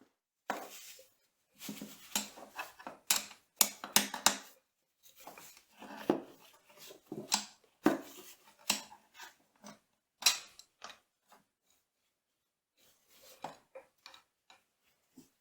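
Irregular metallic clicks, clinks and short scrapes of hand tools working on the steel gear-train parts of a milling machine, busy for most of the time, falling away to a few faint clicks near the end.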